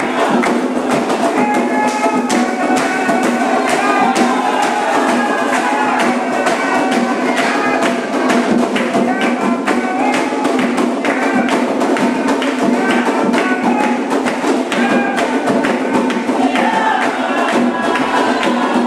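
Candomblé ceremonial music: voices singing a chant over fast, continuous percussion.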